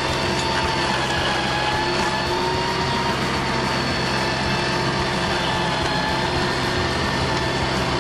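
A machine engine running steadily, with a constant whine that wavers a little in pitch above it.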